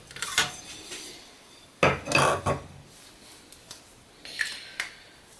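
Metal layout tools clinking and scraping against a thin aluminum sheet, in three short bursts of handling.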